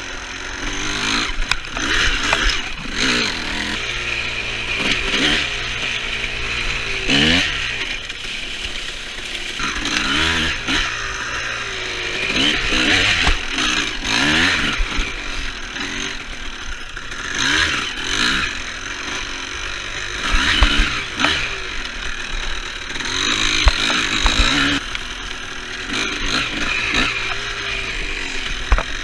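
2003 Honda CR250R two-stroke dirt bike engine being ridden, revving up and falling back over and over in throttle bursts every second or two.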